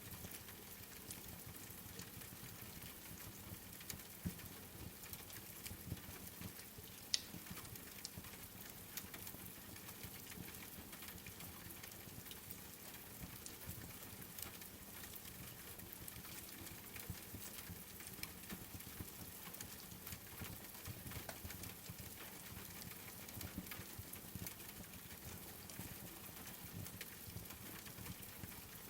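Quiet, steady rain patter mixed with the small pops and crackles of a wood fire, with one sharper pop about seven seconds in.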